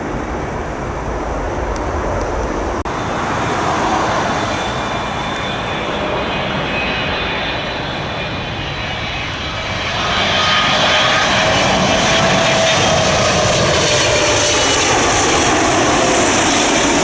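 Engines of a heavy jet airliner landing, a steady roar that grows louder about ten seconds in, with a whine sliding slowly in pitch.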